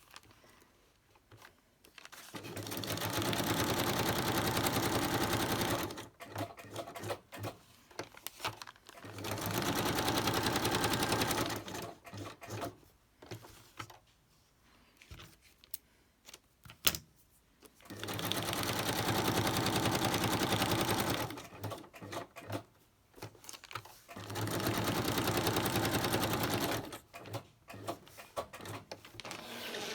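Electric sewing machine stitching through a paper tag, running in four bursts of about three seconds each with short pauses between them.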